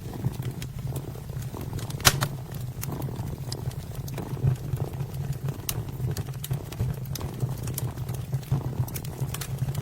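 A kitten purring steadily, with a wood fire crackling over it in scattered sharp pops; the loudest pop comes about two seconds in.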